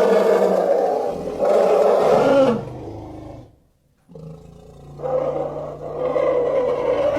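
Lion roaring in two long bouts, separated by a brief silence about four seconds in.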